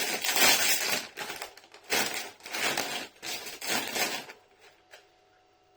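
Crinkly plastic snack bag of tortilla chips being torn open and rustled, in a string of crackling bursts that stop a little over four seconds in.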